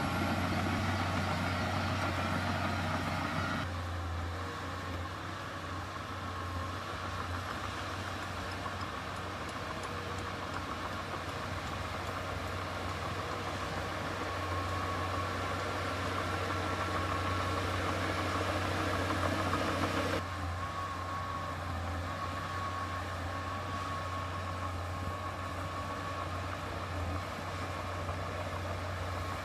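Diesel engine of heavy earthmoving machinery running steadily at a low, even speed. The sound changes abruptly about four seconds in and again about twenty seconds in.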